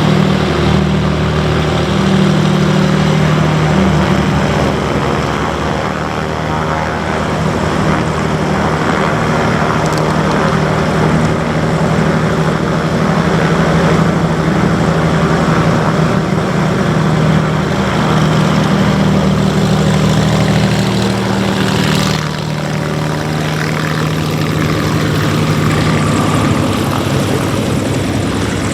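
Radial-engine propeller aircraft of a WWII Grumman fighter display, droning steadily in flight, the engine note shifting and briefly dipping about 22 seconds in.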